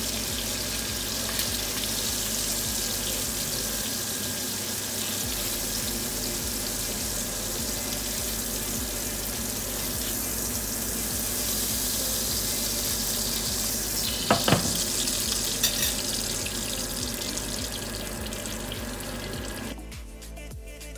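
Pork chops sizzling in hot fat in a frying pan, a steady hiss, with a brief clatter of metal on the pan about two thirds through. Music takes over near the end.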